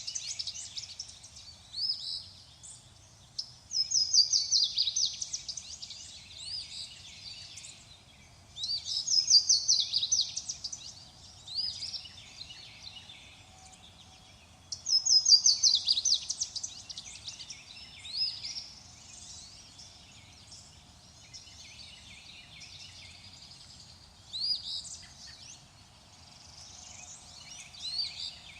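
Songbird singing: loud phrases of rapid high notes falling in pitch, repeated about every five to six seconds, with quieter chirps from other birds in between.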